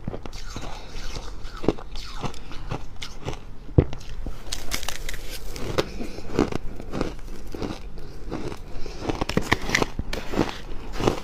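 Freezer frost being bitten and chewed close up: dense, dry crunching crackles in quick, irregular succession, with one sharper crack about four seconds in.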